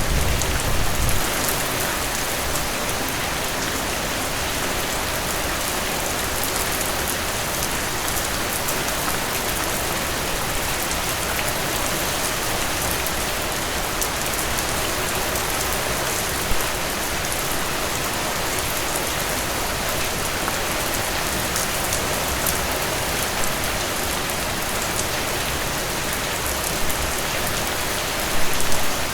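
Heavy rain falling in a steady, even hiss. A low thunder rumble dies away in the first second.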